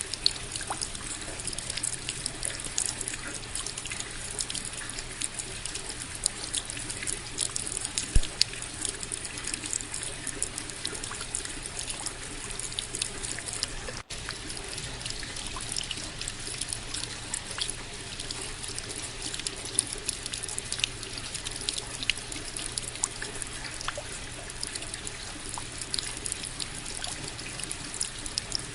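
Steady rain: an even hiss with many close drop ticks, and a momentary break about halfway through.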